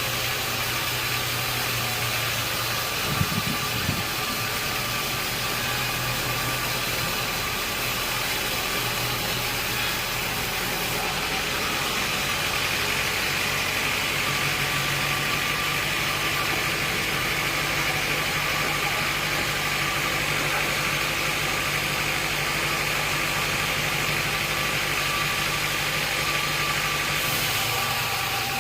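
Sawmill machinery running steadily: a continuous motor hum over a broad noisy hiss, with a couple of knocks about three seconds in.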